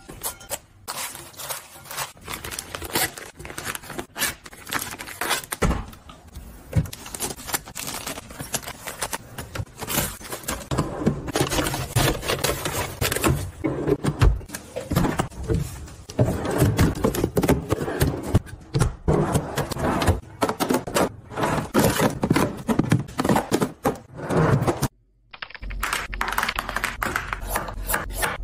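Kitchen handling sounds: a dense run of taps, knocks and scrapes as groceries, packaging and containers are handled and set down, with a brief silent gap near the end.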